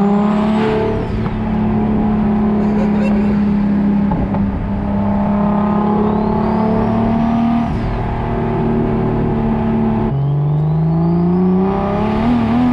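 Turbocharged BMW M52 inline-six pulling hard under load, its note holding and slowly rising, then dropping abruptly about ten seconds in at a gear change and climbing again. A high turbo whine rises and falls over the engine.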